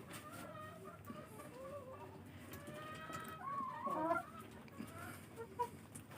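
Domestic fowl calling, with several faint overlapping calls that waver in pitch and a louder cluster of calls about three and a half to four seconds in.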